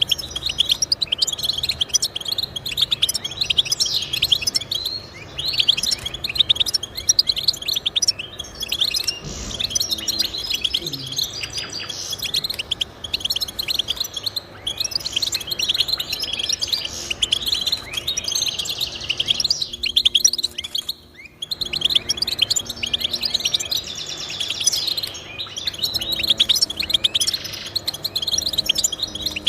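Finch song: a rapid, continuous twittering of fast trills and chirps, with a brief pause about two-thirds of the way through.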